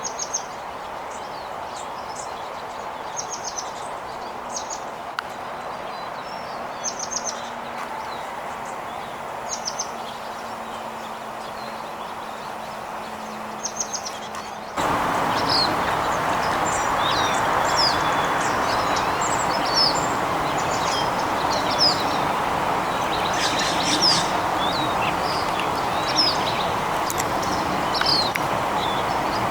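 Small songbirds chirping in short, high, repeated calls over a steady outdoor background hiss. About halfway through, the background gets abruptly louder and the calls become busier, with more varied, sweeping notes.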